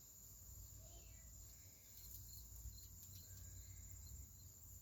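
Near silence: faint background tone with a steady high-pitched whine and a low rumble.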